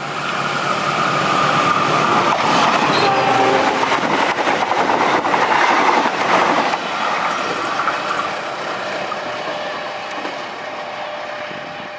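KA Parcel train passing close by, its carriage wheels clattering over the track. It is loudest in the middle and fades away as the train goes off into the distance.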